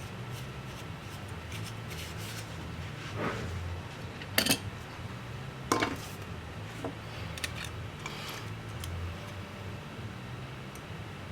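A few light clinks and taps of small hard objects, such as tools or parts handled during a laptop repair, two of them sharper, about four and a half and six seconds in. A steady low hum runs underneath.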